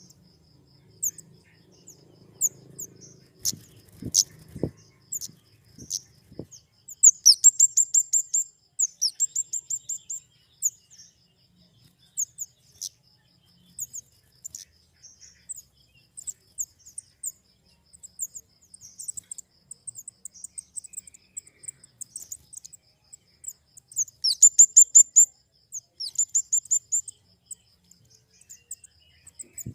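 Flowerpecker (kemade) calling: sharp, very high-pitched chips, breaking twice into rapid runs of ticking notes, about seven seconds in and again about twenty-four seconds in. Under the calls runs a faint, evenly pulsed high tone.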